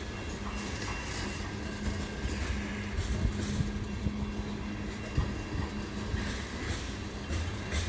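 Freight train cars rolling past, with a steady rumble of wheels on rail and irregular clacks and knocks as the wheels cross rail joints.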